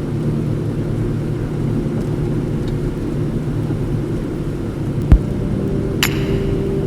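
Car driving: a steady low rumble of engine and road noise, with a sharp thump about five seconds in and a short high click about a second after it.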